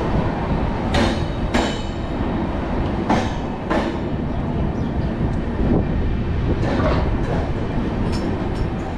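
Passenger train pulling away, heard from an open coach door: steady rolling rumble with sharp wheel clacks over the rail joints, several coming in pairs about half a second apart.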